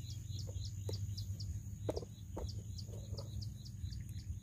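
A bird chirping in a quick, even series, about four short high chirps a second, over a steady high insect whine. A few soft pops come through as well.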